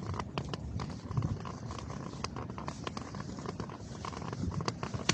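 A white cane tapping and scraping on wet pavement with footsteps, in irregular sharp taps, over a low rumble of a camera held in the hand.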